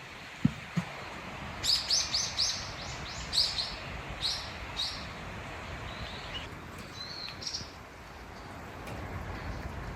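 A small bird chirping: a quick run of sharp, high notes, then a few fainter calls. Two short low knocks come just before the chirps.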